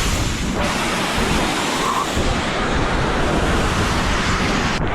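Loud, steady rushing of a waterfall pouring down close by.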